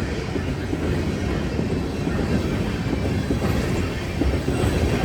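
Freight train cars rolling past on the rails: a steady rumble of wheels on track.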